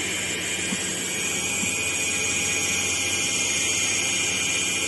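Fishing boat machinery running: a steady drone with a constant high whine, growing slightly louder about a second in.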